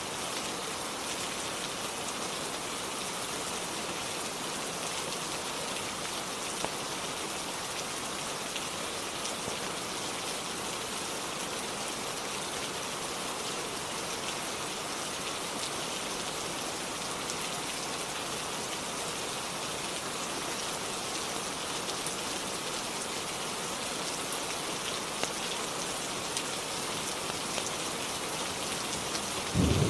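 Steady, even rainfall with a continuous hiss. A low thunderclap breaks in right at the very end.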